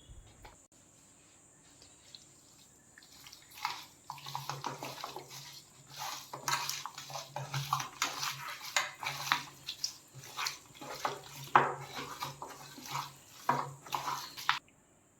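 Raw chicken pieces being washed by hand in a bowl: water sloshing and splashing, with pieces and the bowl knocking and clinking irregularly from about four seconds in, under a steady low hum, until it stops shortly before the end.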